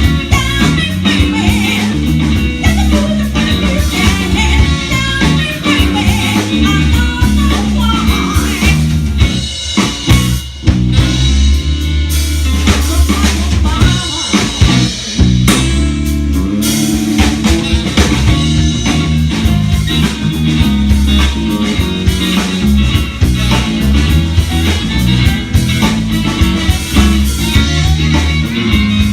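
Band playing rock music: drum kit, electric guitar, bass and singing.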